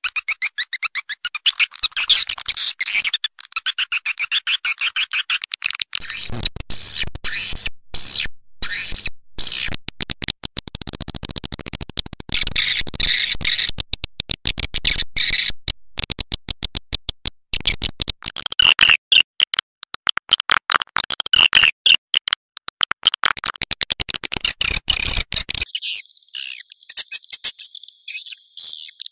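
Swiftlet call-sound track: dense, rapid high twittering chirps of edible-nest swiftlets, played as a lure to draw swiftlets into a bird house. From about six seconds in, a low pulsing layer runs under the chirps. It drops out a few seconds before the end, leaving only the chirps.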